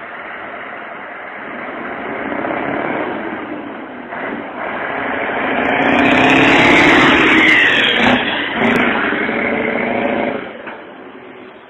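Scania 143's straight-piped V8 truck engine running loud, growing louder to a peak about six to eight seconds in, then fading away near the end.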